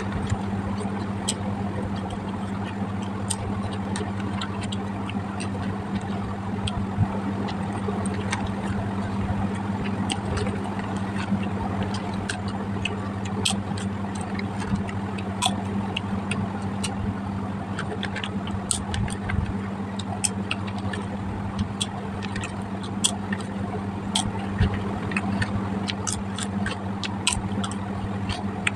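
A steady engine-like hum with a constant low drone, overlaid by many short, sharp clicks and crackles scattered throughout.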